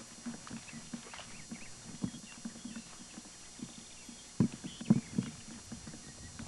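Footsteps outdoors: irregular light clicks and scuffs, with a few louder knocks about four and a half to five seconds in.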